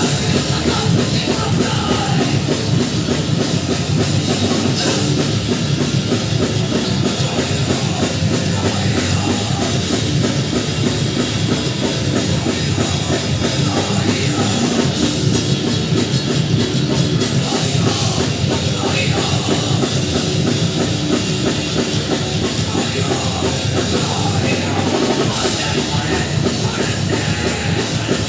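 A rock band playing live at full volume: heavy, dense music with a pounding drum kit that never lets up.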